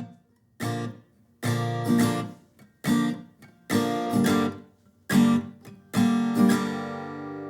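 Background music: an acoustic guitar strumming about six separate chords, each ringing briefly before a short gap, with the last chord ringing on longer near the end.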